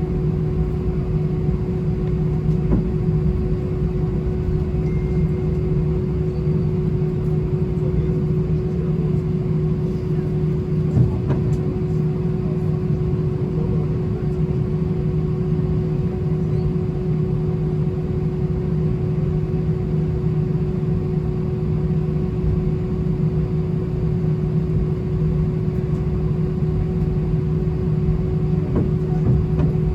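Steady cabin drone inside an Airbus A319 on the ground after landing: a low hum with a steady whining tone over it, unchanging throughout, with one small click about eleven seconds in.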